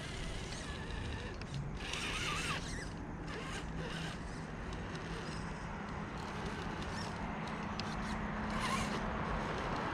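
Axial SCX10 III RC rock crawler running over the course: its small electric motor and gearbox whine steadily, with a couple of short scraping bursts from the tires and chassis on the rocks, about two seconds in and near the end.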